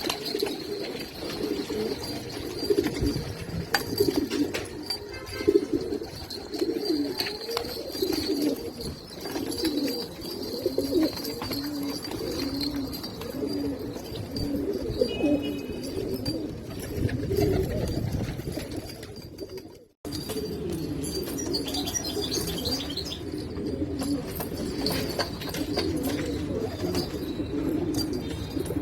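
Domestic pigeons cooing, many low coos overlapping steadily, with a short break about two-thirds of the way through.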